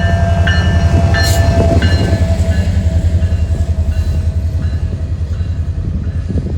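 Diesel locomotive of the CP Holiday Train running by with a heavy, pulsing low rumble. Its horn sounds for the first couple of seconds, then stops while the rumble carries on.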